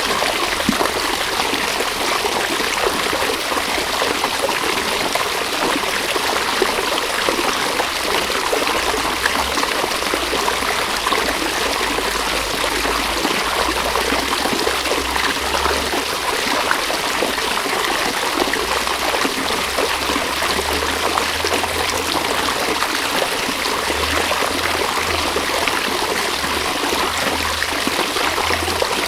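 River water flowing steadily: a continuous rush of running and trickling water.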